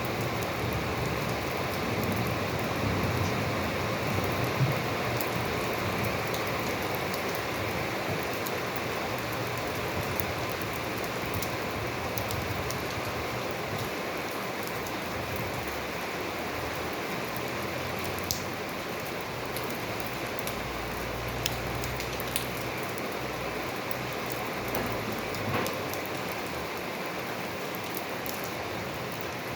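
Steady rain falling, an even hiss with scattered sharper drips close by.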